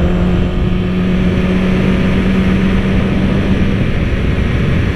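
Motorcycle engine at a steady cruising note under heavy wind rush on the rider's microphone. The engine tone falls away briefly about four seconds in.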